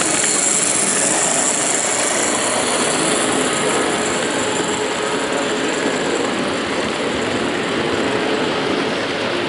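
Model train running on a layout's track, a steady rolling and motor sound over the continuous din of the exhibition hall.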